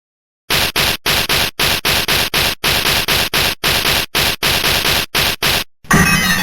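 Rapid bursts of static-like hiss, about four a second, each cut off sharply into complete silence. Near the end they stop and music begins.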